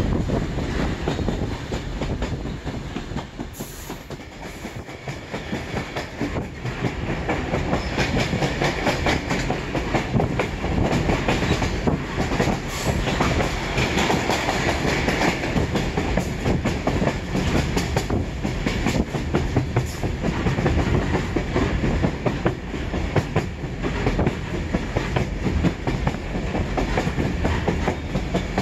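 Railroad passenger car running along the track, heard from aboard: steady wheel-on-rail rumble with irregular clickety-clack over the rail joints. It dips slightly in loudness a few seconds in.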